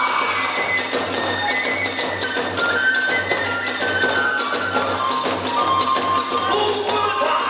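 Kagura hayashi ensemble playing: a bamboo flute carries a melody of held notes over a fast, steady beat of drum strikes and hand cymbals.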